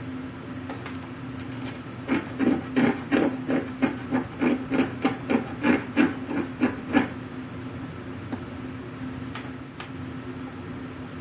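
A run of about fifteen quick, light knocks of hand work on the wooden chest, roughly three a second, starting about two seconds in and stopping about seven seconds in, over a steady low hum.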